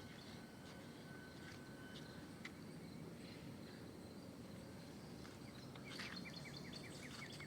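Quiet outdoor background noise, with a rapid run of about eight short, high chirps near the end from a small bird calling.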